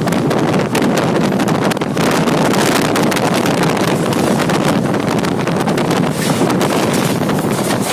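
Train running at speed, its rumble mixed with steady wind buffeting the microphone.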